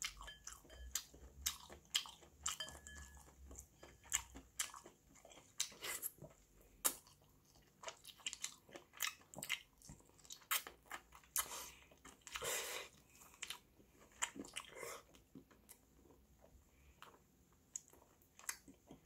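A person chewing sundae (Korean blood sausage), with short mouth clicks and smacks at irregular intervals.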